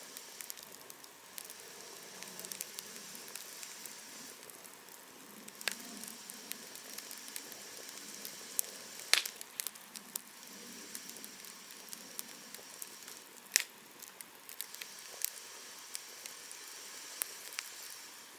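Campfire burning: a steady soft hiss with scattered crackles, and two sharp, loud pops about nine and thirteen and a half seconds in.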